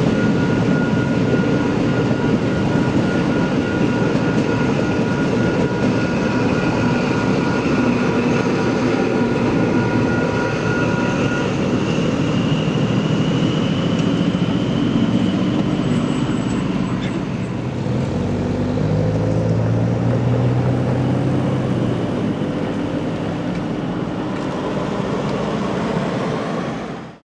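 An XPT passenger train runs through a level crossing while the crossing's electronic bells ring steadily. The bells stop about eleven seconds in, and road vehicles then drive across the tracks.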